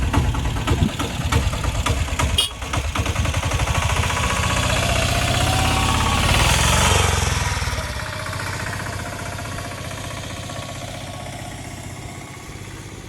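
An engine running with a rapid knocking beat, growing louder to a peak about seven seconds in, then easing off to a steadier, quieter run.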